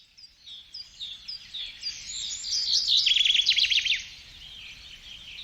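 Birdsong: a string of short high chirps, with a louder rapid trill about three seconds in, then softer chirping again.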